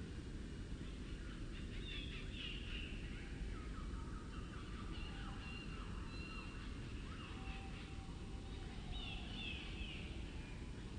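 Wild birdsong slowed down about two and a half times, so the calls come out lower and drawn out. Two falling phrases stand out about two seconds in and again near the end, with scattered held notes between, over a steady low background noise.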